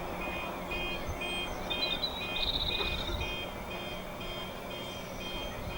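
Electronic warning siren sounding a repeating pattern of high beeps alternating with a warble. This is typical of the audible warning given before a controlled demolition blast. A brief high trill cuts across it about two seconds in.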